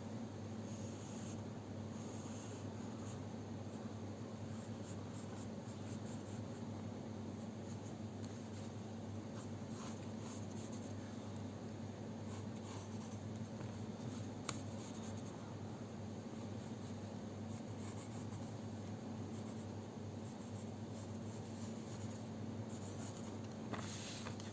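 Drawing strokes on paper, a soft irregular scratching as an outline is drawn, with one sharper tick about halfway through. A steady low hum runs underneath.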